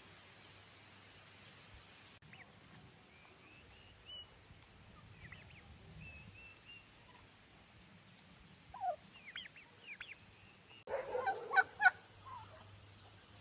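Domestic fowl calling outdoors: faint high chirps at first, then a few calls, and a louder burst of several honking calls about eleven seconds in.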